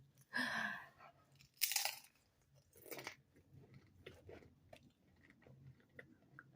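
A person eating close to the microphone: chewing, with three short louder crunchy bites in the first three seconds, then quieter, scattered mouth clicks.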